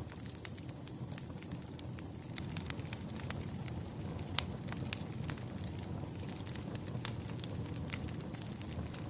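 Wood fire crackling: irregular sharp pops and snaps over a low, steady rumble of burning logs, with one louder pop about four and a half seconds in.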